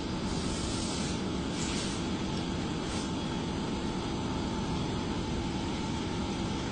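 Vehicle running noise: a steady low rumble with hiss, with a few brief hissy surges in the first three seconds.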